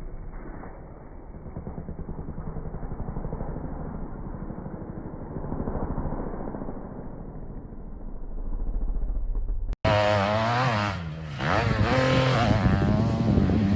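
Dirt bike engines: a dull, pulsing engine note that swells and fades, then, after a sudden cut about ten seconds in, a clearer, louder engine revving up and down.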